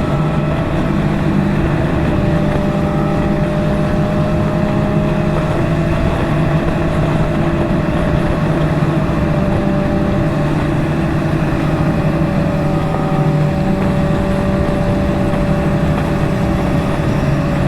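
Motorcycle engine running at a steady cruising speed with wind rush, its pitch holding nearly constant throughout.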